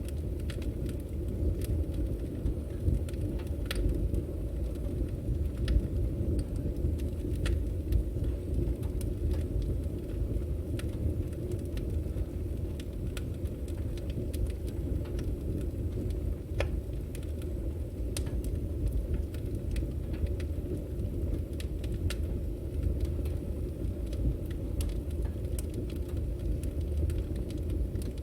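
Firewood burning: a steady low rumble of flames with many scattered sharp crackles and pops from the burning logs.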